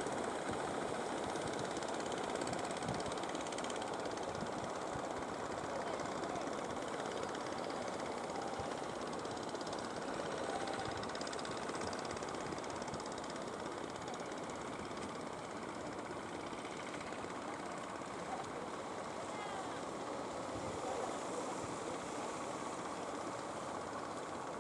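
Fishing boat engines running steadily, a dense, even mix of motor noise with no sudden events.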